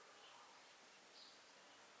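Near silence: a faint steady hiss with two brief, faint high chirps, one shortly after the start and one a little past the middle.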